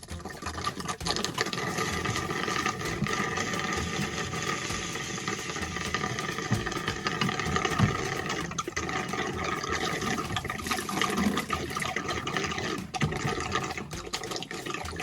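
Water running steadily, a continuous rush with no break.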